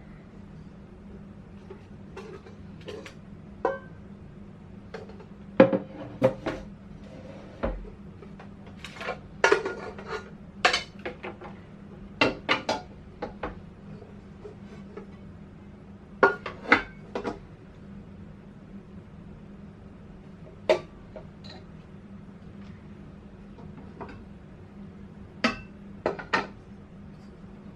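Dishes and pots being handled and set down, an irregular string of clinks and knocks with short pauses between, over a steady low hum.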